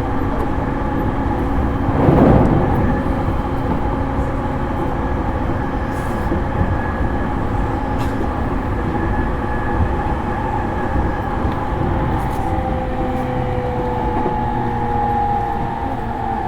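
Interior running sound of a JR East E231 series electric train, heard from a motor car: steady wheel-on-rail rumble with motor and gear whine tones. About two seconds in there is a brief louder rush, and a few faint clicks follow. Near the end, whine tones set in that fall slowly in pitch.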